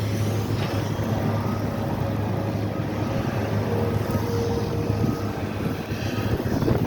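Engine of snow-clearing equipment running with a steady low hum that fades about five seconds in.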